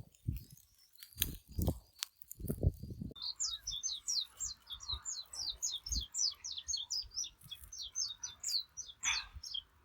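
A bird calling in a fast run of short, high, falling chirps, about four or five a second, starting about three seconds in. Before it, a few soft low thumps.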